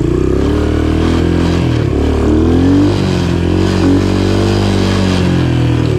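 Honda TRX125 single-cylinder four-stroke engine, rebuilt with a 130cc higher-compression piston and fitted in an XL100 dirt bike, running under way. Its pitch rises and falls with the throttle, dipping about two seconds in and climbing again.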